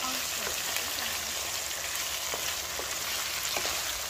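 Minced meat and peas sizzling in a wide metal pan, stirred with a wooden spatula. A steady frying hiss runs throughout, with a few light scrapes and clicks as the spatula works the mince.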